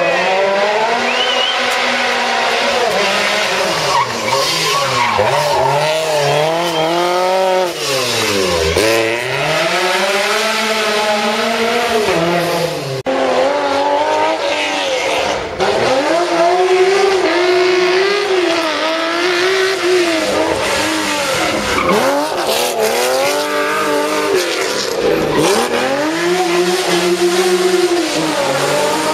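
Historic rally car engines revving hard on a special stage, the pitch climbing and dropping again and again through gear changes and lifts off the throttle, with tyres squealing at times.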